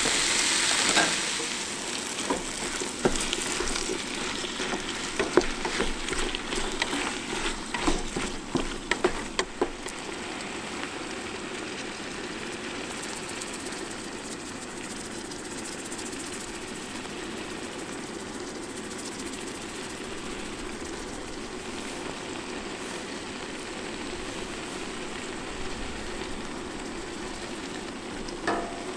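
Ground venison sizzling loudly as it hits a hot pot of sautéed vegetables, with the clatter of stirring and scraping against the pot over the first ten seconds or so. The sizzle then settles into a steady, even rush from the Coleman Triton propane camp stove under the covered pot.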